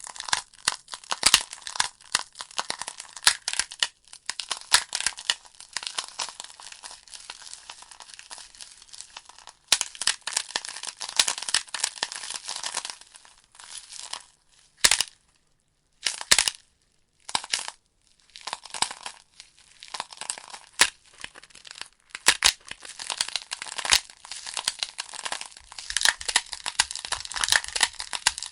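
Burning logs in a fireplace crackling and popping: dense, sharp snaps of the wood over a faint hiss. The crackling thins to a lull of a few seconds about halfway through, with only a couple of single pops, then picks up again.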